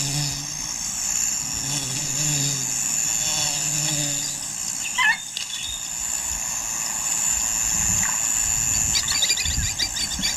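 Wild bush ambience: a steady high insect buzz, with a single bird call about halfway through and low rumbling sounds near the end.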